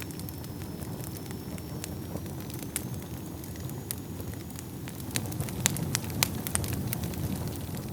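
Wood fire burning in a fireplace: a low steady rumble with scattered sharp crackles and pops, which come thicker and louder about five seconds in. A faint, steady high whistle runs underneath.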